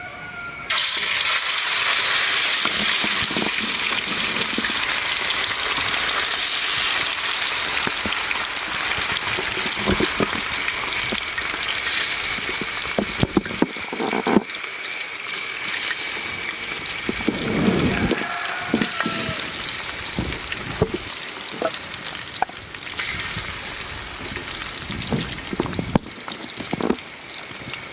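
Marinated, cornflour-coated chicken pieces deep-frying in hot coconut oil, a loud steady sizzle that starts suddenly about a second in as the chicken goes into the oil and eases off a little over the last several seconds.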